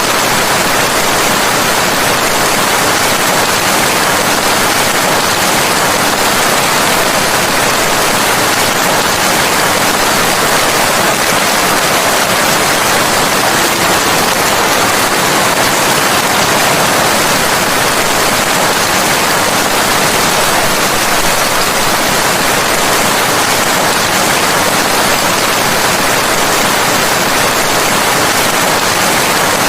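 Steady heavy rain, a dense unbroken hiss with no distinct drops or thunder.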